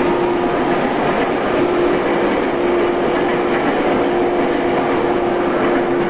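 Interior sound of a JR East 113 series electric train: a steady hum with one constant tone over an even rumble and hiss, the tone dropping out briefly a couple of times.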